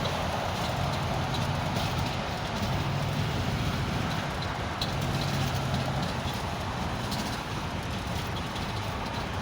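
Truck engine running with a steady low rumble, heard from inside the cab, with a few faint ticks.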